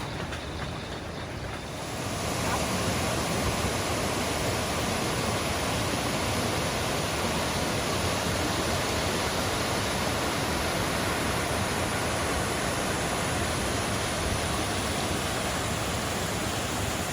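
Waterfall rushing: a steady, even wash of falling water that grows louder about two seconds in and then holds.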